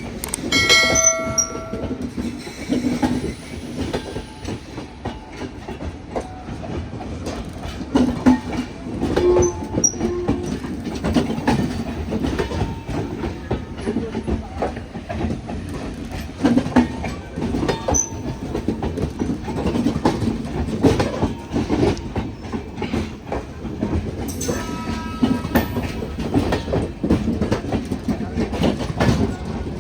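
Passenger train wheels clattering over a double diamond railway crossing: an irregular run of heavy clacks as the bogies pass over the crossing, with a brief high squeal near the start and another about three-quarters of the way through.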